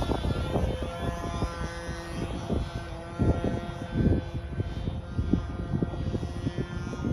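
Radio-controlled biplane's motor and propeller running in flight at a fairly steady pitch, with wind buffeting the microphone.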